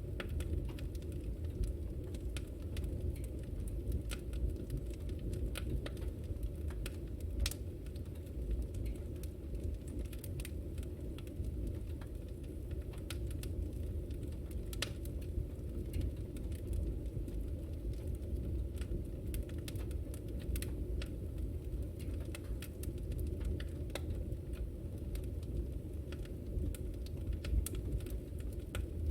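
Fireplace fire burning with a steady low rumble and irregular sharp crackles and pops scattered throughout.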